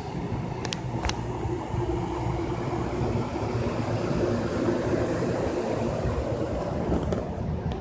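Commuter train rolling along the track beside the platform and drawing away: a steady low rumble of wheels on rail, with a faint held engine tone. Two sharp clicks come just under a second in.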